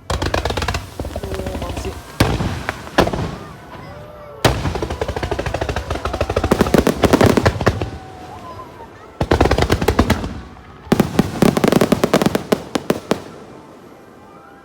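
Fireworks finale fired close to the launch tubes: rapid volleys of shell bursts and crackle come in several waves, each lasting one to three seconds, separated by brief lulls.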